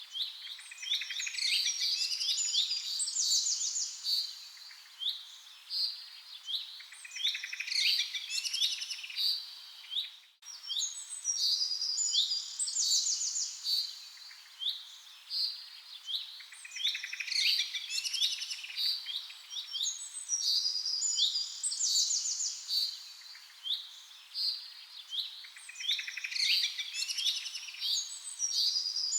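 Many birds chirping and calling, with quick high trills, in clusters that come back about every ten seconds. There is a very brief dropout about ten seconds in.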